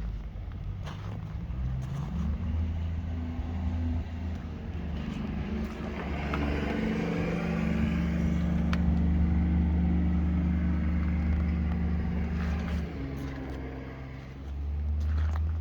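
John Deere 8530 tractor's six-cylinder diesel engine running. Its speed rises about two seconds in and again around six seconds, holds high for several seconds, falls back near thirteen seconds and picks up again near the end.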